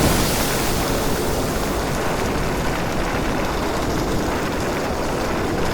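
Steady rushing noise, like wind or surf, holding at an even level.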